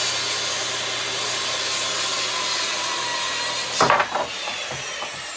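Electric power saw cutting through wood, running steadily, then a loud clatter about four seconds in, after which the motor winds down with a falling whine.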